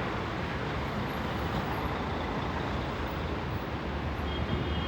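Steady road traffic noise: passing vehicles and tyres with a low engine rumble.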